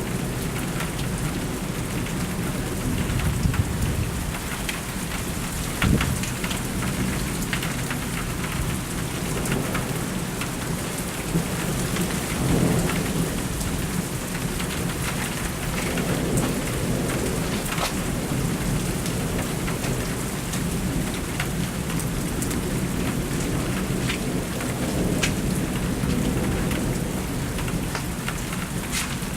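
Thunderstorm: steady heavy rain with thunder rumbling several times, including a sharper crack about six seconds in.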